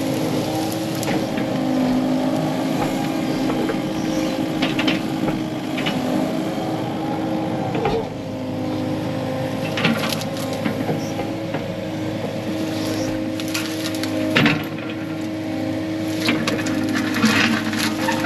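Heavy-equipment diesel engine running steadily, with scattered cracks and crunches of brush and rock being broken.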